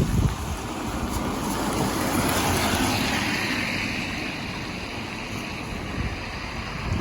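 A vehicle passing on a wet road, its tyre hiss swelling about two seconds in and falling away in pitch, over wind on the microphone.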